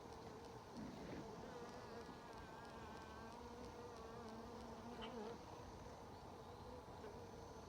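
Honeybees buzzing faintly and steadily around an open hive, a low, slightly wavering hum.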